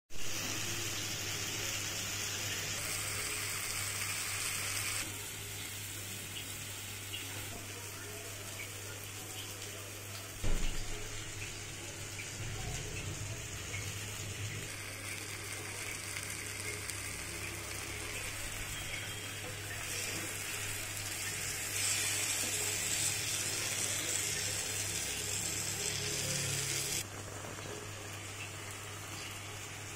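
Onion-tomato masala, with halved boiled eggs in it, sizzling and simmering in a nonstick pan, the sizzle jumping in level several times, over a steady low hum. A single sharp knock about ten seconds in.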